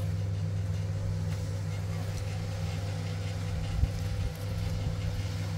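An engine running steadily with a constant low hum, with one short knock a little over halfway through.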